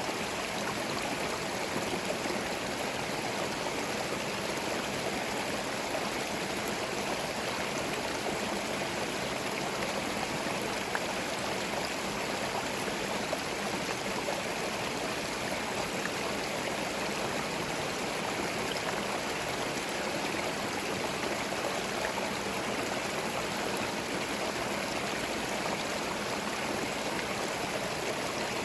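A small forest stream running steadily over stones, a continuous babbling and gurgling of flowing water with no birds.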